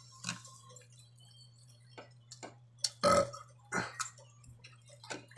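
A person eating, with scattered short mouth clicks and smacks, and a loud, short burp about three seconds in followed by a smaller one, over a steady low hum.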